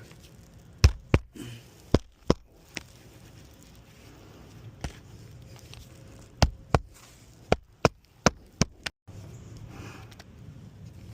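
Hammer striking roofing nails into asphalt 3-tab shingles during a test repair: sharp knocks, mostly in quick pairs, in several groups.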